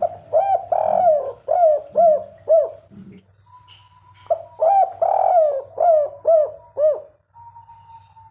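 Spotted dove cooing its song twice. Each phrase is a run of about five rising-and-falling coos, the second one longer. A thin steady whistle-like tone sounds faintly between and after the phrases.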